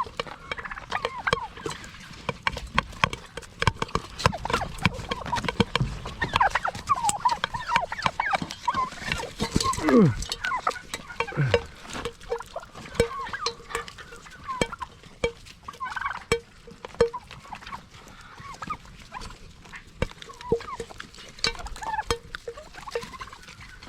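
Domestic turkeys calling while pecking macaroni and cheese from a bowl: many sharp taps mixed with short calls, and one longer call falling in pitch about ten seconds in.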